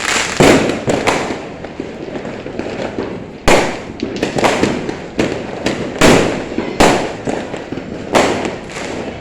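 Fireworks going off: a string of sharp bangs, about eight in nine seconds, each trailing off in crackle, over a steady background of more distant bursts.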